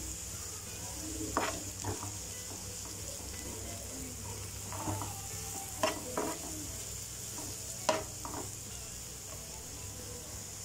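Chopped onions and green chillies sizzling in hot oil in a frying pan as they are stirred, with a few sharp scrapes or taps against the pan.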